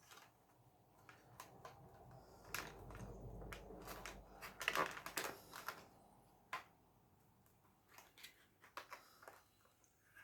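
Model locomotive packaging being handled: plastic and card crinkling and clicking, densest and loudest in the middle, then a few scattered clicks.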